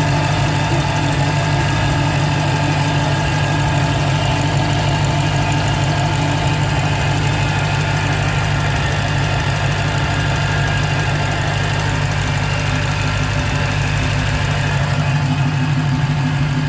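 2015 Dodge Challenger Hellcat's supercharged 6.2-litre V8 idling steadily, with a faint steady whine from the supercharger. The owner suspects the whine is the supercharger bearing starting to go bad.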